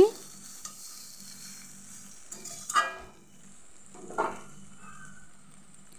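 Soybean chunks and potatoes in spice paste sizzling gently in oil in a karai on a medium flame, a steady faint frying hiss. Two brief louder sounds come near the middle, about a second and a half apart.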